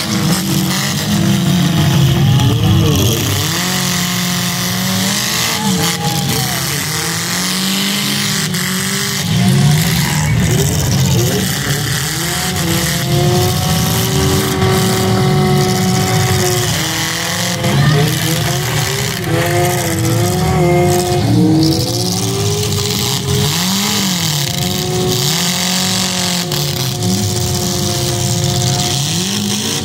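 Demolition derby car engines revving hard and running together, their pitch climbing and dropping again and again as the cars push and ram, with a few louder moments of collision.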